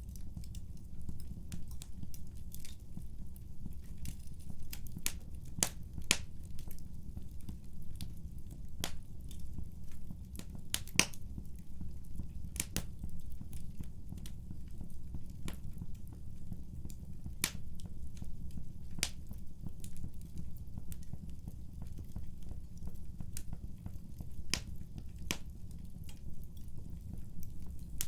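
Wood fire crackling in a fireplace: irregular sharp pops and snaps over a steady low rumble, the loudest pop about eleven seconds in.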